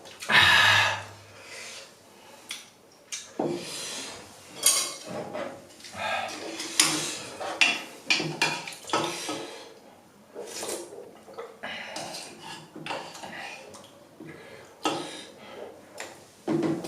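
A person eating instant ramen: utensils clink and scrape against the dish in irregular bursts, with eating sounds between.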